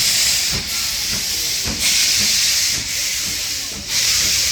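Steam locomotive letting off steam: a loud hiss that swells and dips about once a second, with faint low knocks underneath.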